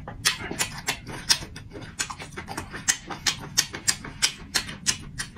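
Close-up wet chewing and lip smacks of a person eating, in a steady run of about four smacks a second.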